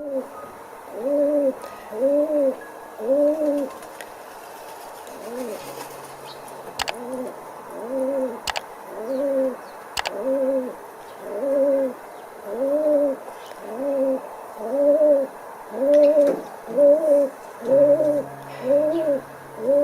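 A pigeon cooing: a long run of short, rounded coos, one after another with a brief pause early on. A few sharp clicks sound among them.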